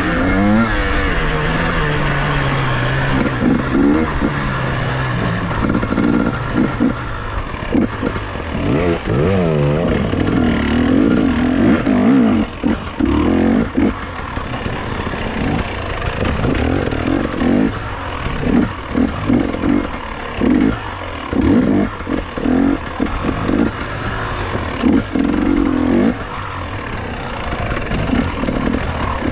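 KTM two-stroke enduro motorcycle engine under hard riding: revving up and falling back again and again as the throttle is opened and snapped shut, with many short dips between bursts.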